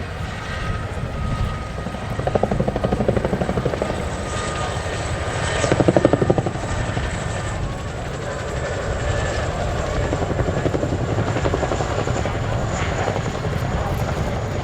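CH-47J Chinook tandem-rotor helicopter running, its rotor blades beating in a rapid even pulse over a low rumble. The pulsing swells twice, a couple of seconds in and more strongly about six seconds in.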